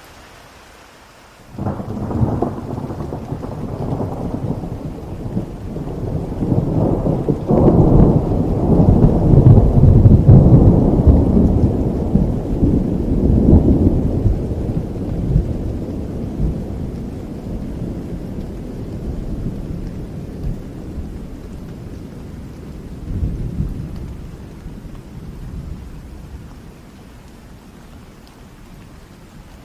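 A long peal of thunder breaks suddenly about a second and a half in over steady rain. It grows to its loudest partway through, with a sharper crack along the way, then rolls away slowly, swelling once more near the end before it dies down.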